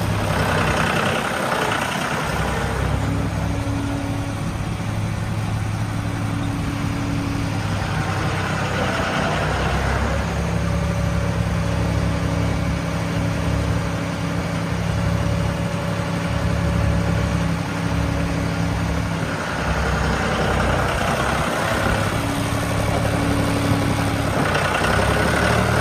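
John Deere 5045E tractor's three-cylinder diesel engine idling steadily, with small shifts in its tone now and then.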